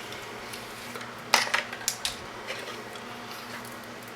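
Small hard objects clicking and clattering on a workbench as wire and tools are handled: one sharp click about a second in, then a few lighter clicks, over a faint steady hum.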